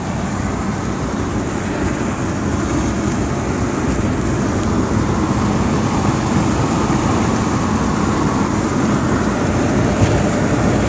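Steady road and engine noise inside a moving car, slowly getting a little louder.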